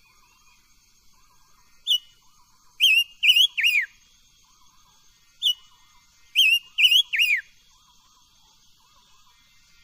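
Silver-eared mesia (ngũ sắc) singing clear whistled notes in two phrases: each is a short note, then three quick loud notes, the last sliding down in pitch. A faint repeating chirp and a thin high hum run underneath.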